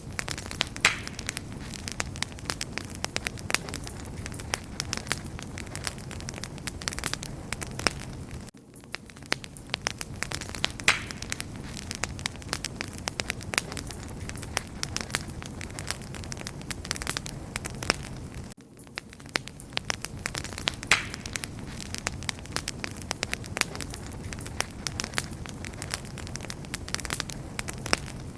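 Wood fire burning with a steady hiss and dense, irregular crackles and sharp pops. The same stretch of crackling repeats about every ten seconds, with a brief drop in level at each join.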